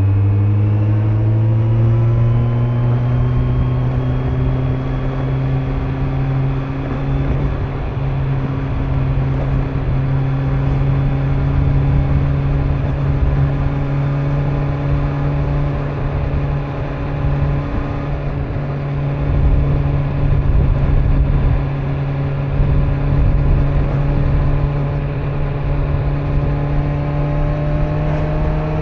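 Kawasaki Z900's inline-four engine under way on the road. It pulls up in pitch for the first couple of seconds, then holds steady at cruising revs and rises a little again near the end, with a low wind and road rumble underneath.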